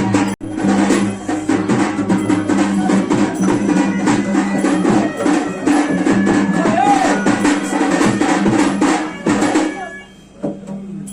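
Festival drumming with steady held tones beneath, dense and rapid, with a momentary break just after the start; the playing stops abruptly near the end.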